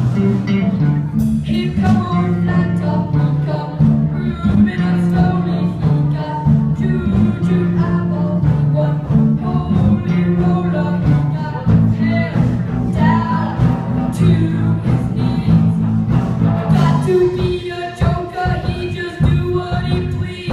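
A live band playing a song, with a singer.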